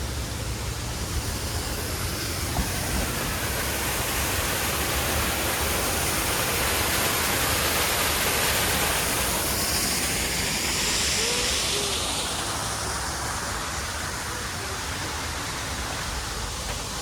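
Steady rush of falling water, growing louder toward the middle and then easing off again.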